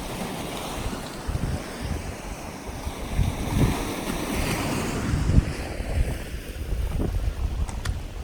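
Wind buffeting the microphone in uneven gusts, over a steady hiss of sea surf.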